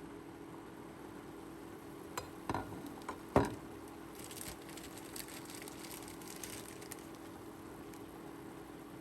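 A few sharp knocks and clinks, the loudest about three and a half seconds in, followed by a few seconds of light crackling ticks, over a steady low hum.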